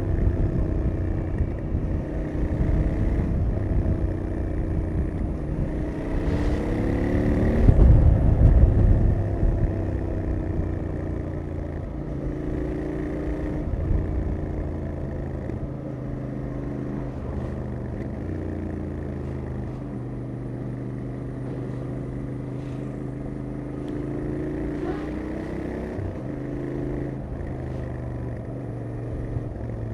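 Royal Enfield Interceptor 650's 648 cc parallel-twin on its stock exhaust, ridden on the road. The revs rise and fall through the first third and are loudest about a quarter of the way in, then settle to a steadier, quieter cruise.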